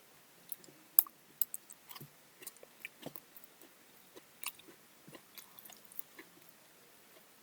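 A person chewing and biting into melon close to the microphone: irregular small wet clicks and crunches, the sharpest about a second in and again about four and a half seconds in.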